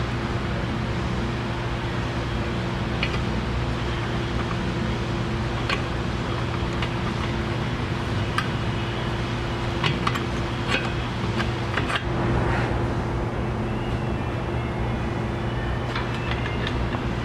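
Scattered light metallic clinks and knocks as a new suspension control arm and its bolt are worked into place, over a steady mechanical hum with a low drone.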